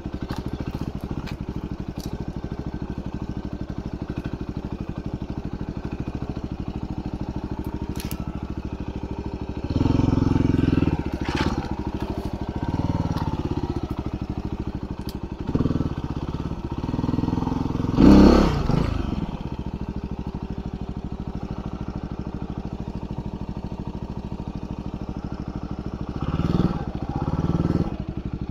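Yamaha WR250R's single-cylinder four-stroke engine running at low speed, with several short bursts of throttle. About two-thirds of the way through, one rev rises and falls. A few sharp clicks come in along the way.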